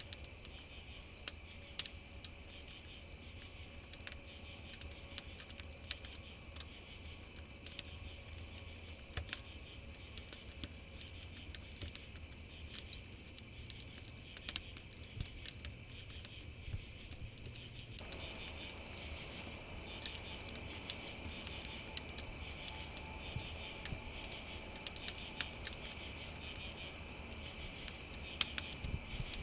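Campfire crackling, with sharp irregular pops, over a steady chorus of crickets chirping. About two-thirds of the way through, the low background hiss becomes a little louder.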